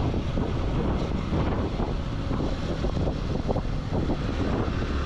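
Wind buffeting the microphone: a steady, low rumbling noise with no distinct engine note.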